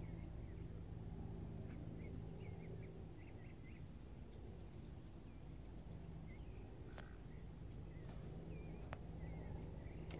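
Small birds chirping faintly in short, scattered twitters over a steady low hum.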